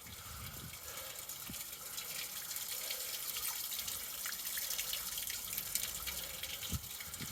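Pooled rainwater flowing down into a cleared storm drain, a steady stream of water with drips and splashes that grows a little louder about two seconds in. A dull thump sounds near the end.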